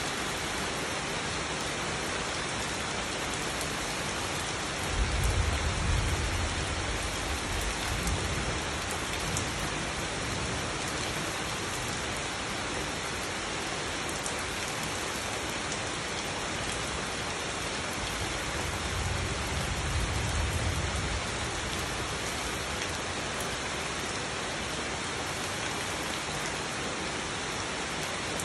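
Steady rain falling on foliage and wet ground. Two low rumbles of thunder come through it, one about five seconds in lasting a few seconds, and a second, shorter one about twenty seconds in.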